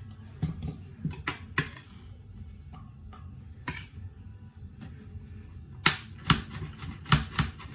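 Knife chopping onion on a glass chopping board: irregular sharp knocks of the blade striking the board, with a quicker run of louder strokes near the end.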